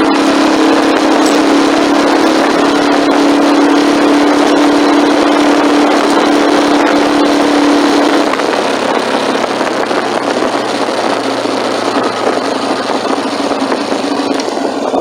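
Motorcycle engine running under way, with heavy wind and road noise. The steady engine note drops lower about halfway through as the throttle eases off.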